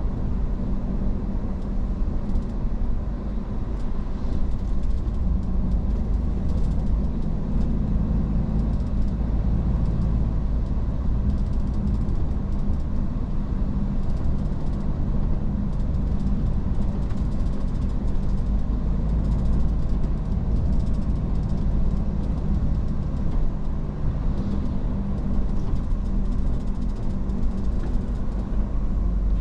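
Iveco S-Way truck's diesel engine droning steadily under road and tyre rumble while the truck cruises at an even speed.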